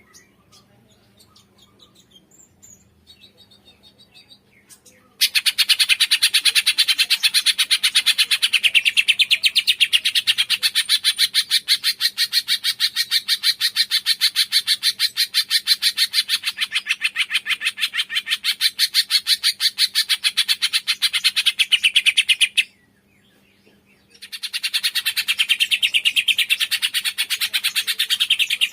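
Cungkok songbird singing a long, fast, rattling chatter of rapid repeated notes, starting about five seconds in, breaking off briefly near the end and then starting again.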